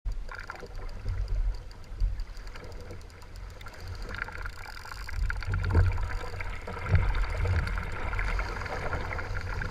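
Sea water splashing and lapping against a kayak's hull, with wind buffeting the microphone as a low rumble that comes in gusts.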